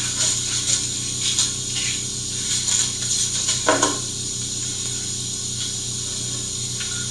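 Tools and parts being shifted and cleared off a work surface: scattered light clicks and clatter, with one sharper knock a little under four seconds in, over a steady low hum.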